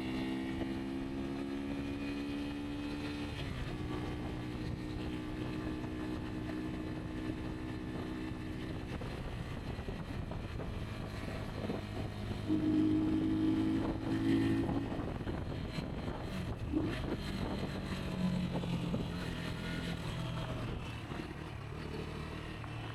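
Rieju Aventura 125's single-cylinder engine running as the bike is ridden on a dirt track, holding a steady note through the first half, then louder and higher-pitched for a couple of seconds about halfway through before easing back to a lower note.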